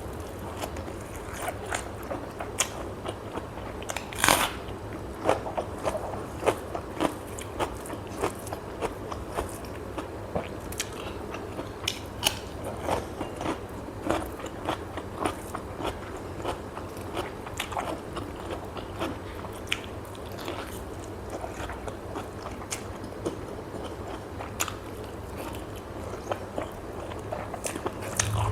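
Close-miked eating: a person biting and chewing food, with many irregular sharp crunches, the loudest about four seconds in, over a low steady hum.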